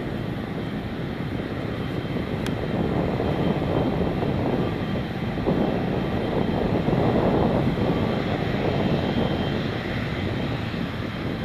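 Boeing 777-300ER's GE90-115B jet engines and airflow giving a steady rushing roar, swelling a little past the middle, with a single sharp click about two and a half seconds in.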